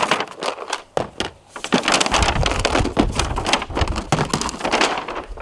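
Plastic rustling and clicking as a set of new waterproof plastic tackle boxes is taken out and handled: a dense, irregular run of crackles and knocks. A low rumble joins about two seconds in.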